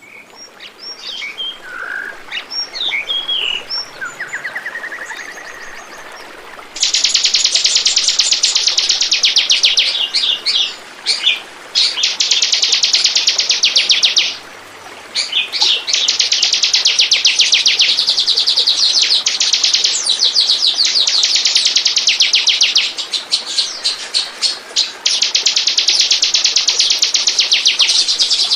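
Bar-winged prinia (ciblek) calling: a few scattered chirps at first, then from about seven seconds in long, very fast trills of rapidly repeated high notes, broken by short pauses.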